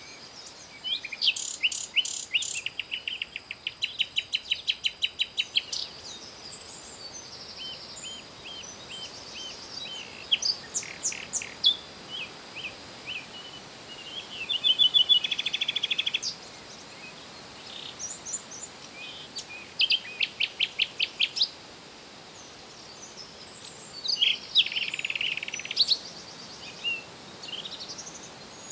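Several songbirds singing and calling: rapid series of chirps, a loud trill about halfway through and a buzzy burst near the end, over a faint steady background hiss.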